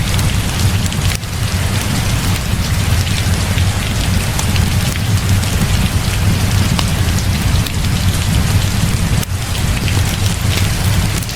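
Heavy rain falling steadily, with a deep low rumble underneath and a scatter of small sharp ticks throughout; the sound dips briefly twice.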